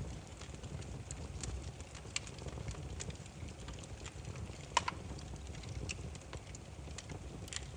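Burning firewood: a low steady rumble of flame with scattered sharp crackles and pops, one louder pop a little under five seconds in.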